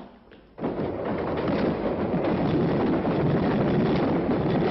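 London Underground train running through a tube tunnel. Its steady rumble comes in suddenly about half a second in and holds.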